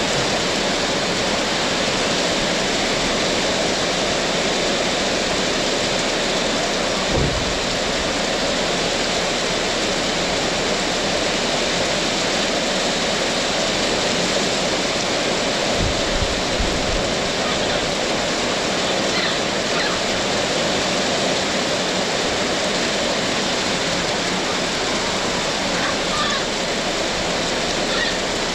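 Heavy tropical rain pouring steadily, a dense even hiss of water, with a couple of brief low bumps, one about a quarter of the way in and one about halfway.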